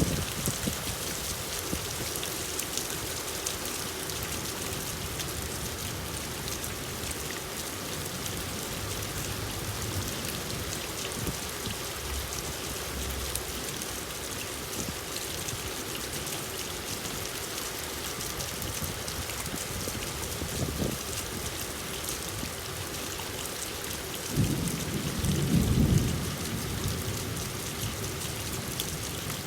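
Steady rain falling, a continuous hiss of drops on surfaces. Near the end a low rumble of thunder swells up for about two seconds.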